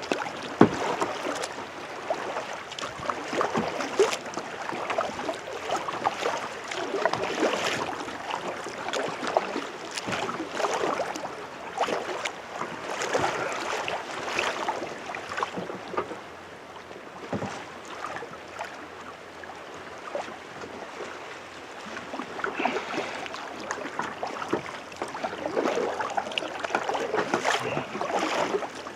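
Kayak paddling: the paddle blades dipping and splashing, with water washing against the hull, in a slow uneven rhythm of swells. It goes quieter for several seconds in the middle.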